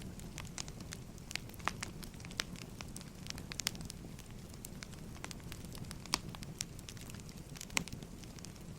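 Burning firewood crackling: a steady low rumble of flames with irregular sharp pops and snaps.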